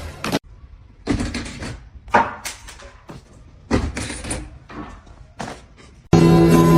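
A series of sharp knocks and clatters at irregular intervals, some in quick succession. Music with guitar starts suddenly near the end.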